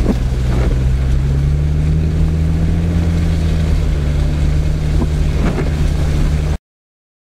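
Four-wheel-drive vehicle's engine running steadily, heard from inside the cab while driving along a track, its pitch rising slightly about two seconds in. The sound then cuts off abruptly near the end.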